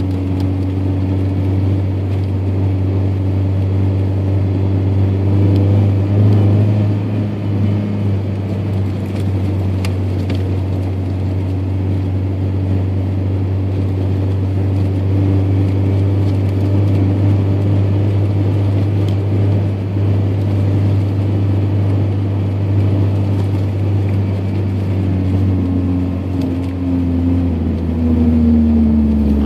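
1999 Ford Ranger pickup driving, its engine and road noise heard from inside the cab as a steady low drone. The engine pitch rises a little near the end.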